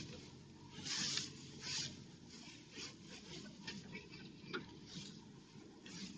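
Faint rustling and rubbing noises with a few soft clicks. The two strongest rustles come about a second in and just before two seconds.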